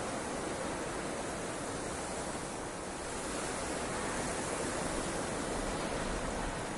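Blizzard wind ambience: a steady, even rushing hiss with no gusts or breaks.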